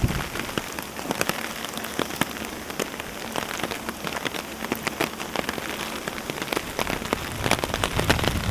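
Heavy rain falling steadily, with many sharp, irregular drop ticks close by over a constant hiss.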